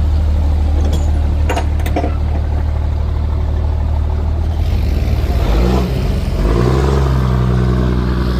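Diesel pickup engine running steadily at a low note, then revving up about five seconds in and holding a higher note. A few sharp clicks sound about one to two seconds in.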